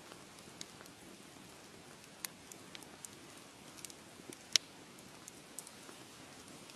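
Wood fire crackling: a soft steady hiss with scattered sharp pops and snaps, the loudest pop a little past halfway through.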